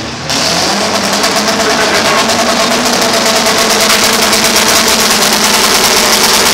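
Demolition derby cars' engines running loud and close, revving unevenly as the cars push against each other. The sound jumps up in loudness just after the start, then stays steady.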